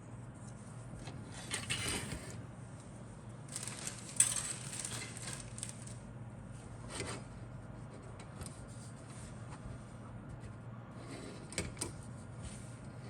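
Handling noises: bursts of rustling with scattered light clicks and taps, the sharpest tap about four seconds in, over a faint steady hum.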